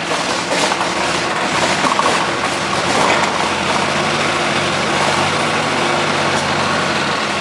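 Heavy vehicle's diesel-type engine running steadily under dense mechanical noise, with a few short clatters in the first three seconds.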